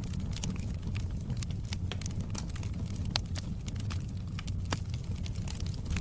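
Wood fire burning in a fireplace: irregular sharp crackles and pops over a steady low rumble, with a louder pop about three seconds in.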